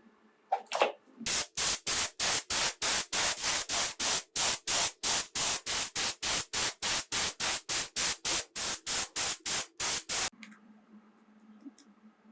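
Rapid, even rubbing strokes, about three or four a second, begin about a second in and stop abruptly about ten seconds in; each stroke is a loud, hissing scrape, typical of hand work on a diecast model body.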